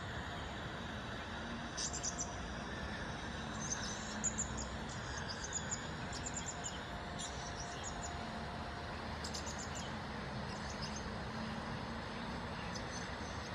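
Bird calls: short clusters of high, thin chirps repeated irregularly, a few times, over a steady background hum like distant traffic.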